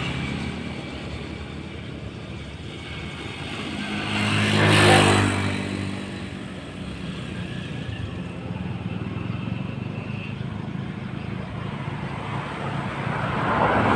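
Road traffic: a vehicle passes close about five seconds in, its engine sound swelling and fading, over a steady low engine hum; another vehicle approaches near the end.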